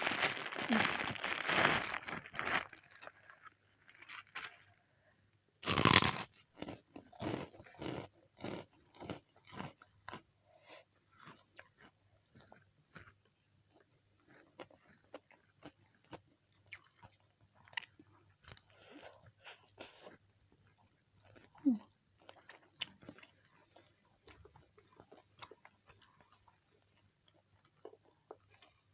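Close-miked crunchy eating, from fried chicken and raw vegetables: a noisy rustle in the first couple of seconds, then one loud crunchy bite about six seconds in, followed by a long run of crisp crunching and chewing that slowly thins out.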